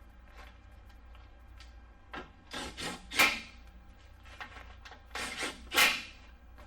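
Two bouts of harsh scraping, each a few rasping strokes that build to one loud scrape, about two seconds in and again about five seconds in.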